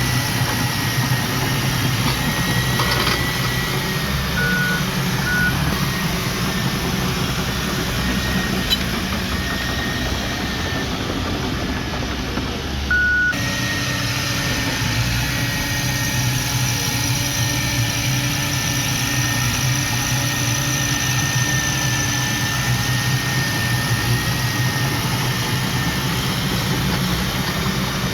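Diesel engine of earthmoving machinery running steadily. A few short high beeps sound over it, twice in quick succession and once more later.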